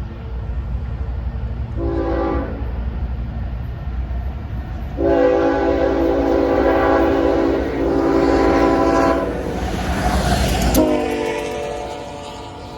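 Train horn sounding a short blast, then a long blast, over the low rumble of the approaching train. About eleven seconds in, as the locomotive passes, the horn's chord drops in pitch and the rumble falls away.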